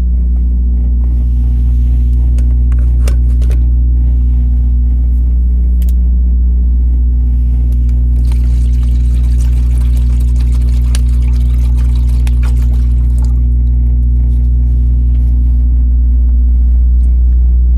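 Large diesel engine running at a steady speed: a loud, deep, even drone that does not rise or fall, with a few faint clicks over it.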